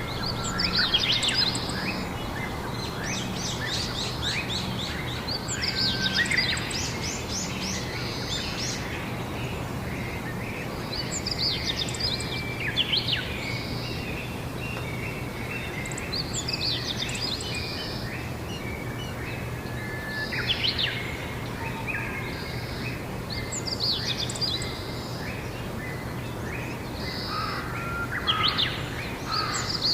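Songbirds singing outdoors: short phrases of quick, high chirping notes every few seconds, over a steady background of low hum and noise.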